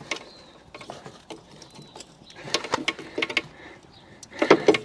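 Harley front brake caliper being rocked back and forth on the disc to push its pistons back, giving a string of metal clicks and knocks, quickest in a run about halfway through and louder near the end.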